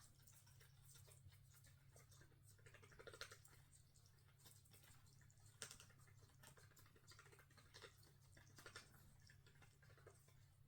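Near silence: room tone with faint, scattered clicks and soft rustles.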